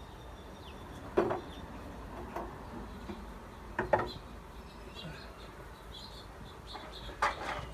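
Honeybees buzzing faintly around an open hive, with a few sharp knocks and clicks of wooden hive parts being handled. The loudest knocks come about a second in and at about four seconds.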